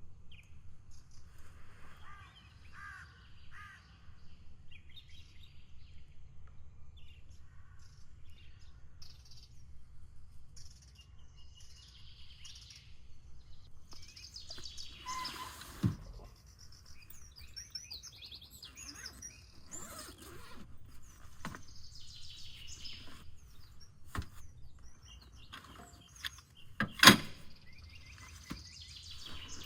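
Songbirds chirping and trilling in the forest over a steady low outdoor rumble, broken by a few sharp knocks, the loudest near the end.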